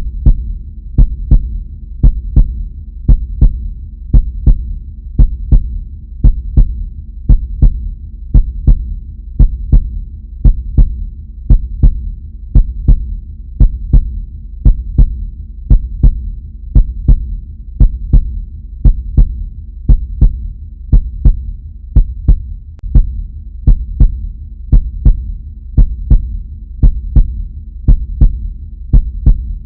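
Heartbeat sound effect: steady lub-dub double thumps, about one pair a second, over a continuous low hum.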